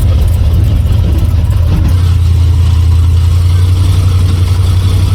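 Airboat's engine and propeller running loud and steady, with a deep, even hum.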